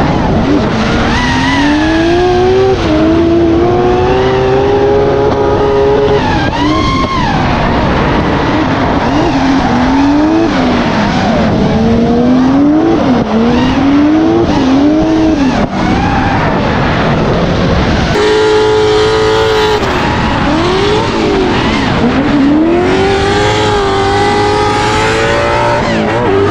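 Race car engine revving hard, its pitch climbing and falling back again and again as the throttle is worked, and holding steadier for a couple of seconds past the middle.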